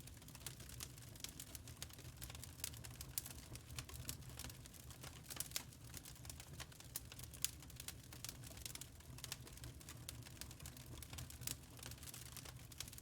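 Fireplace fire crackling: a dense, irregular run of sharp crackles, some louder than others, over a steady low rumble.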